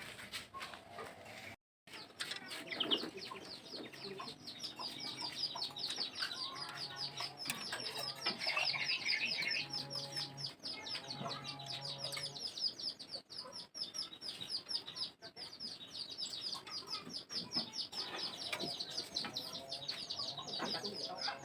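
Chickens clucking, with a rapid, continuous high-pitched cheeping that starts about two seconds in.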